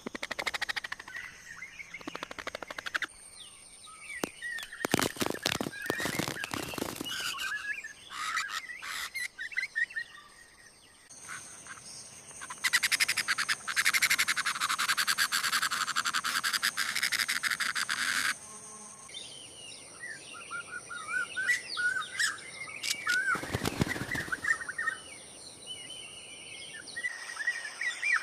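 Birds chirping and calling amid forest ambience, in several segments that change abruptly. In the middle a dense, steady hiss holds for about five seconds, and twice there are brief bursts of rapid clicking or fluttering.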